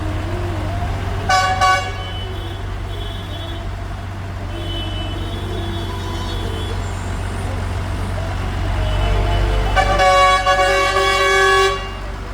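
Vehicle horns tooting over the steady low rumble of passing tractor engines: a short toot about a second in, fainter horn tones in the middle, and one long blast of nearly two seconds near the end.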